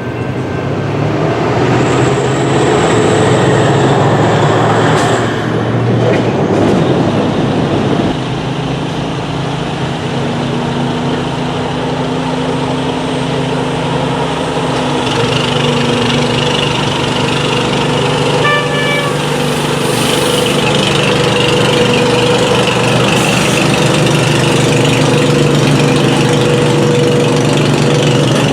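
Heavy diesel engine running steadily with a low hum, with a few short high tones about two-thirds of the way through.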